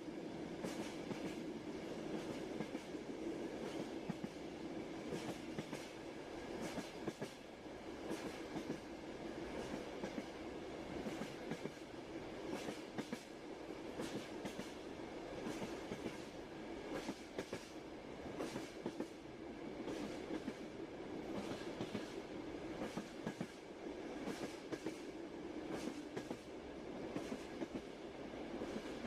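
Train running steadily, a constant rumble with frequent clicks and knocks of wheels clattering over the rails.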